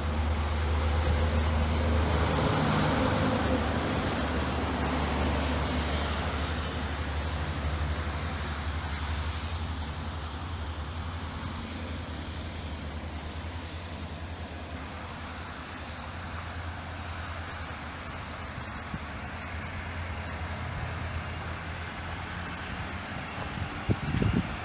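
A car running: a steady low engine hum under an even wash of road and wind noise, easing slightly in level after the first few seconds, with a brief knock near the end.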